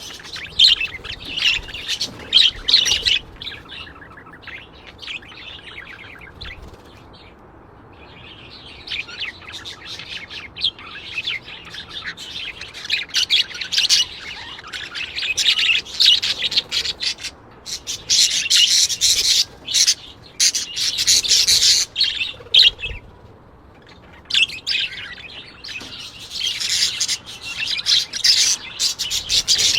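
Small birds chirping and twittering rapidly in overlapping bouts, with a quieter lull about five seconds in and busier, louder chatter in the second half.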